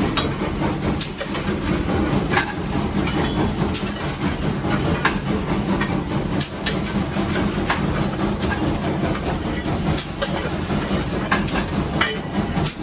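Cab of Nevada Northern No. 81, a 2-8-0 steam locomotive, under way: a steady rumble of the running engine with a sharp click about every second and a half, like wheels passing over rail joints at low speed.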